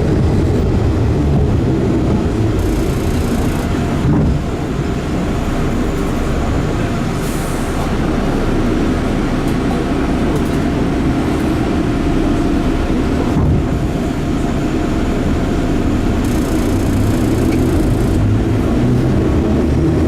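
Enshu Railway 30 series electric train running, its steady rumble of motors and wheels on rail heard from inside the passenger car.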